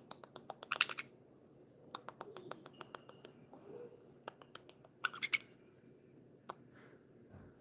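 Pet parrot making quick runs of soft clicking sounds, with a couple of brief raspy chatters between them.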